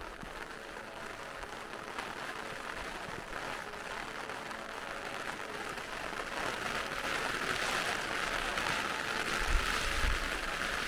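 Heavy rain falling steadily, a hiss that grows louder about halfway through, with a dull low bump near the end.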